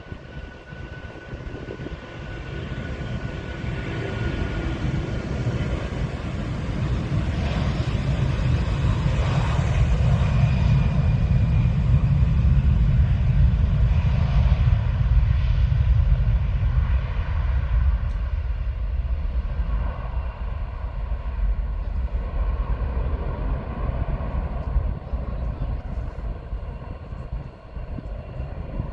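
Aircraft engines rising over about ten seconds to a loud, deep rumble, then slowly fading: a departing aircraft passing.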